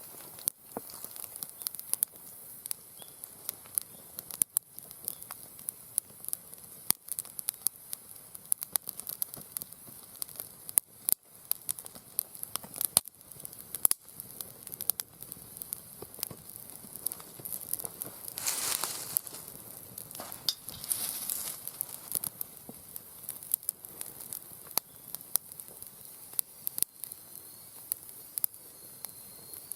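Wood fire in a round fire pit crackling and popping, with sharp irregular snaps over a steady sizzling hiss. A louder rush of noise swells for about a second a little past halfway, and again more softly shortly after.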